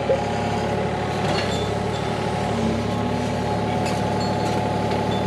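A motor running steadily at an even speed.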